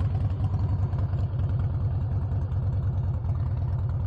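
Motorcycle engine idling steadily with an even low pulse, just after being started.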